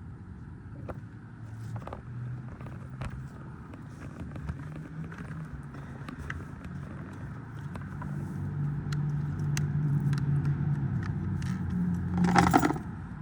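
Clicks and scraping from handling a Kawasaki KGT27C string trimmer before starting it, over a steady low hum that grows louder. A short, loud rasp about twelve seconds in, consistent with a pull on the recoil starter cord.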